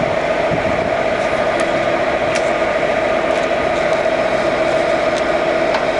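Harrison VS330 centre lathe running, with a steady gear whine from the headstock and gearbox and a few faint clicks as its gear levers are shifted through the range.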